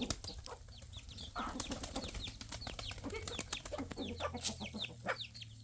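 Birds chirping: many short, high, downward-sliding peeps in quick succession, with a few clicks.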